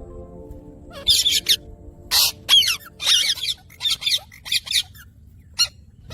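Indian ringneck parakeets squawking and chattering, a quick run of short, harsh calls with fast pitch slides starting about a second in.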